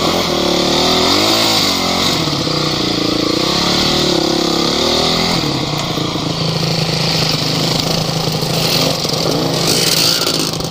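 Off-road vehicle engine revving up and down for about five seconds, then running at a steady pitch.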